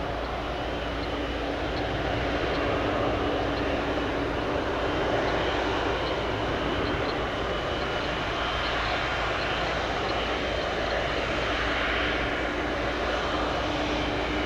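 Jet airliner engines running: a steady rushing noise with a low steady hum underneath, swelling slightly in the middle.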